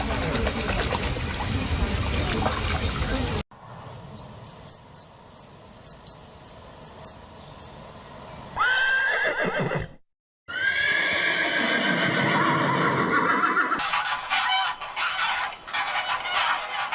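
Horse whinnying twice, each call starting high and falling away, with a brief silent cut between them. Before that comes a run of short high chirps, about two or three a second, and at the start a steady noisy rush.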